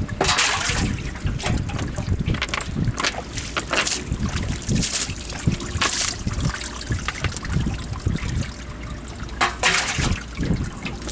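Water splashing and trickling in irregular short bursts, with dull low bumps beneath.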